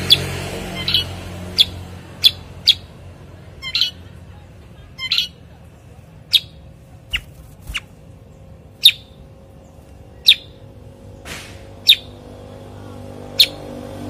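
Cucak kurincang calling: short, sharp chirps repeated at irregular intervals, roughly one every half second to second and a half, over a faint low background hum.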